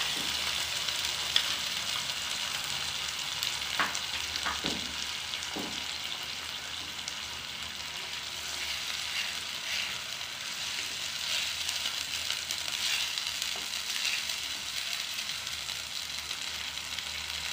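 Onions, ginger-garlic paste and dried red chili paste sizzling steadily in hot mustard oil in a non-stick wok. A wooden spatula stirs and scrapes now and then, most around the middle.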